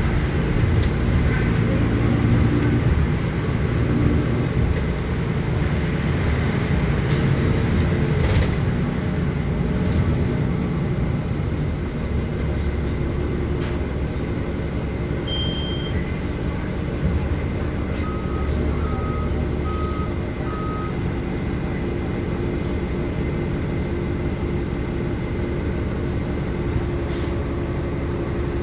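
City bus in motion heard from inside: a steady engine and road rumble. About halfway through comes one short high electronic beep, and a few seconds later four short beeps in a row.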